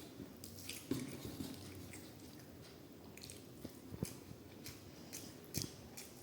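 A man chewing a mouthful of rice and fish curry, with short wet smacks and clicks from the mouth and food; a few sharper clicks stand out about a second in, around four seconds and near the end.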